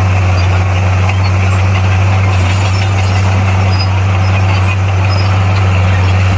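Bulldozer's diesel engine running steadily with a deep, even hum and no change in pitch.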